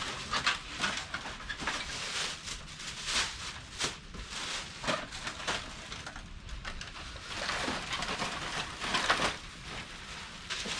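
Plastic bags rustling and crinkling as they are pulled apart and handled, in an irregular string of short crackles and scrapes.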